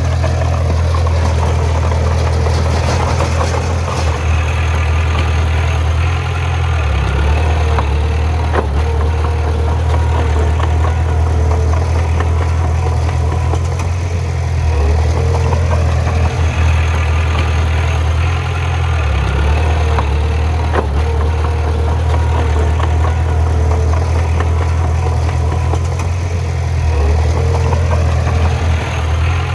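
Bulldozer's heavy diesel engine running continuously, its low note shifting up and down several times, with a few sharp knocks.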